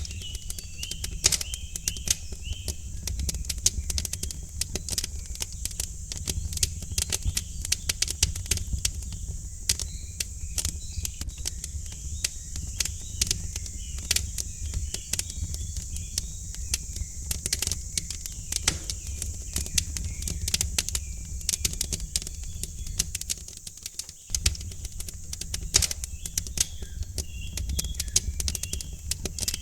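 Wood fire crackling with frequent sharp pops and snaps over a low steady rumble, while small birds chirp in short runs near the start, in the middle and again near the end.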